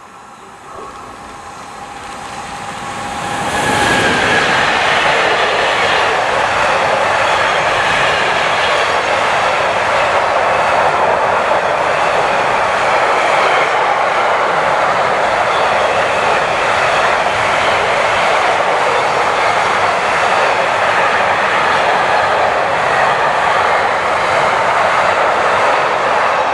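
A train approaching, growing louder over the first few seconds, then passing close by at speed: a long, loud, steady rush of wheels on rails that lasts over twenty seconds and cuts off suddenly.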